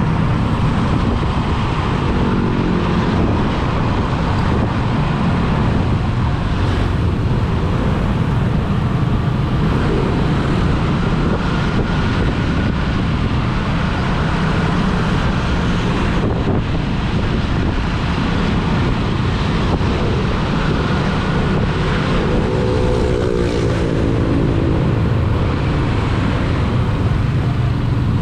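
Steady road and wind noise heard from a moving vehicle, with an engine running throughout. About three-quarters of the way through, an engine's pitch rises briefly as it accelerates.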